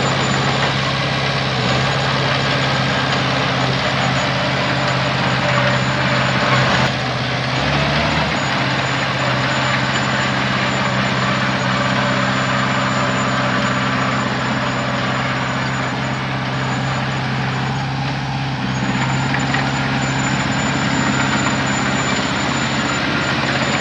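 Heavy diesel engine running steadily at an even speed, with a brief change in pitch about seven to eight seconds in.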